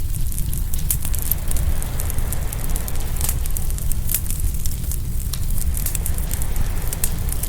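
Open wood fire crackling and popping, with frequent sharp snaps over a steady low rumble.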